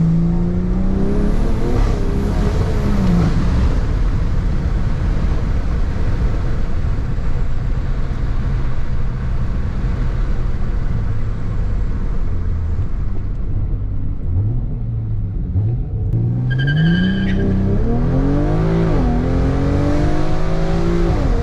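BMW M340i's B58 turbocharged inline-six with an MST cold air intake, accelerating hard: engine pitch rises, holds through a long steady pull, then climbs again, drops sharply once at a gear change near the end, and climbs again. A brief high tone sounds about three-quarters of the way through.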